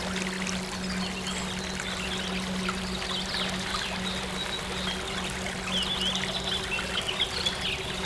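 Water trickling and flowing steadily, with small birds chirping throughout, over a steady low synth drone.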